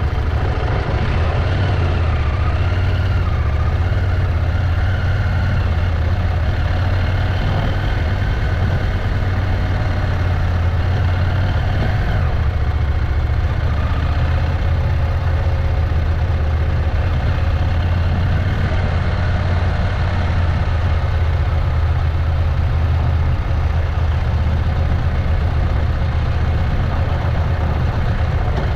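Motorcycle engine running at an even pace while riding: a loud, steady low drone with no revving.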